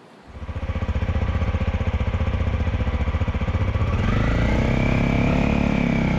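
Motorcycle engine running with a fast, even pulse, starting abruptly. About four seconds in the pitch rises and holds as the engine revs up.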